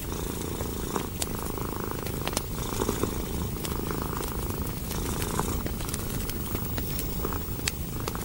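Domestic cat purring steadily, a low continuous rumble, with scattered small sharp clicks of a crackling wood fire.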